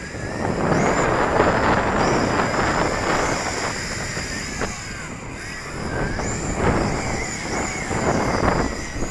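Strong wind gusts buffeting the microphone, swelling twice, over the high whine of a Yi Zhan Tarantula X6 six-rotor drone's motors, which rises and falls in pitch as the drone is flown hard against the wind.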